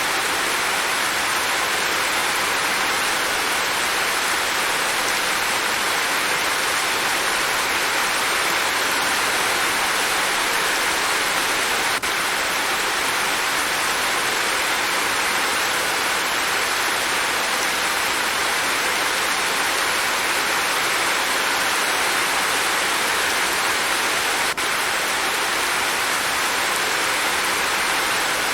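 Steady rain falling, an even, unbroken hiss with no thunder or separate drops standing out.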